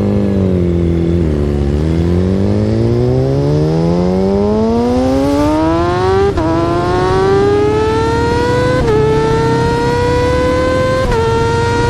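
Yamaha R6 inline-four sport-bike engine accelerating hard through the gears. The revs dip briefly at first, then climb steadily to a high wail, with sudden drops at three upshifts: about six, nine and eleven seconds in.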